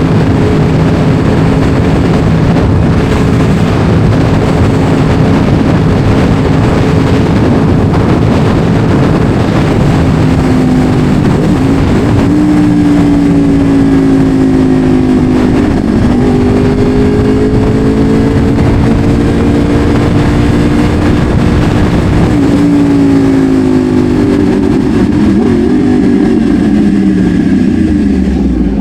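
Sport motorcycle engine running at speed. Its pitch is steady at first, then falls and rises repeatedly through the second half with throttle and gear changes, over a constant rushing noise.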